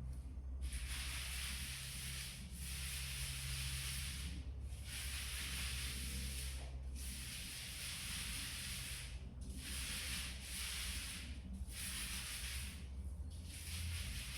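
Paint roller being rolled over a wall: a series of long, hissing strokes, about six of them, each roughly two seconds with brief pauses between.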